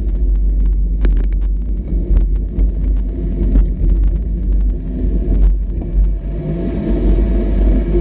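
An off-road vehicle's engine running steadily with a heavy low rumble, and scattered knocks and rattles as it travels over rough ground.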